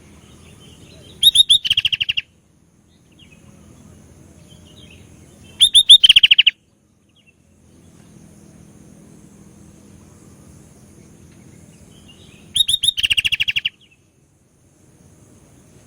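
Sooty-headed bulbul (kutilang) singing three short, loud bursts about a second each, near the start, the middle and near the end. Each burst is a quick run of repeated notes. A faint steady hum lies underneath between the bursts.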